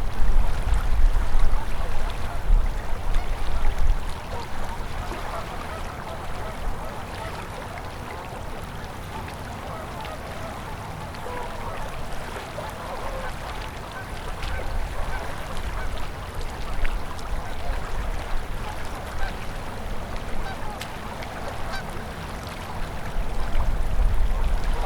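Open winter river flowing steadily between ice, a continuous babbling wash of water, with a low rumble that is heavier in the first few seconds and again near the end.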